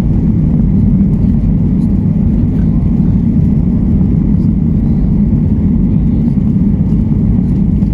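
Steady, loud rumble of a Boeing 737's jet engines and the airflow around it, heard from inside the passenger cabin during departure.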